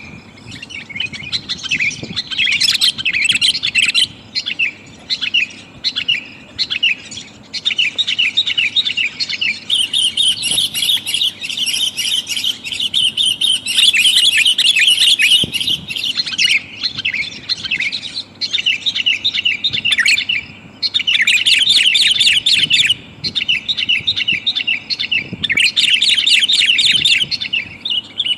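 Sooty-headed bulbuls giving busy chattering calls in rapid runs of short notes, bursts of a few seconds with brief pauses between them. The uploader sells it as a female calling a male.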